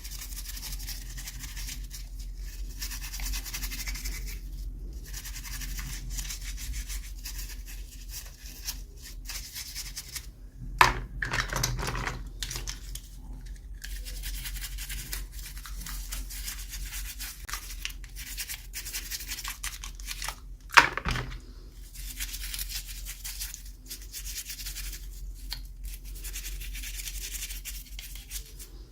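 Hands rubbing, scratching and rustling toy packaging. Twice there is a sharp snap or click, about a third and two thirds of the way through.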